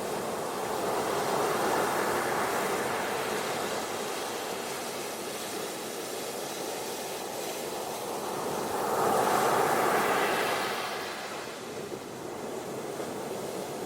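Ocean waves washing on a beach: a steady rush that swells twice, about two seconds in and again about ten seconds in, as waves break.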